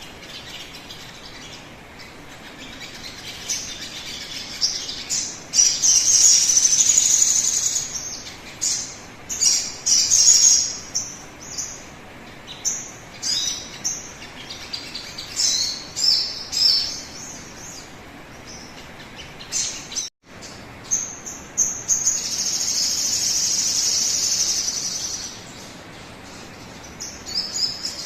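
Sogon bird calls used as a lure: runs of short, high chirps with two long, loud high trills, about 6 seconds in and about 22 seconds in. The sound cuts out for an instant about 20 seconds in.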